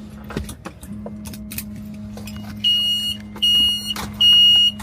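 Electronic warning beeps, three evenly spaced half-second tones starting about halfway in, over a steady low hum.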